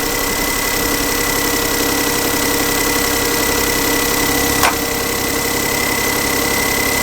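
The 2008 Smart ForTwo's 1-litre three-cylinder engine idling with one cylinder dead from a misfire. A steady high tone runs over it, and a single sharp click sounds about two-thirds of the way through.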